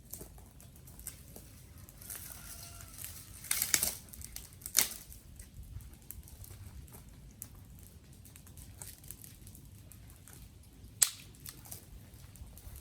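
Dry twigs and sticks snapping and crackling: a crunching cluster about three and a half seconds in, then single sharp snaps near five and eleven seconds, with light crackles between.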